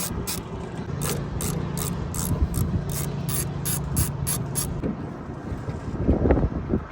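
Ratchet wrench being worked in short strokes, its pawl clicking about three times a second, stopping about four and a half seconds in; a low steady hum runs under it, and a dull knock follows near the end.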